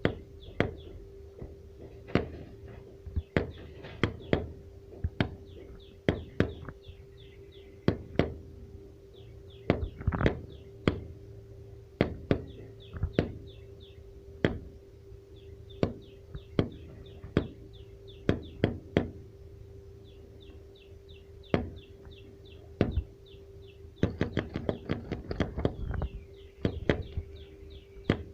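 A bird's rapid, high chirping in short trilled runs, under sharp knocks that come irregularly about once a second. A steady low hum runs underneath.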